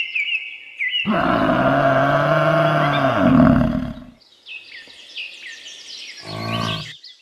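Bison bellowing: one long, low bellow about a second in lasting some three seconds, then a shorter one near the end. Small birds chirp in the background.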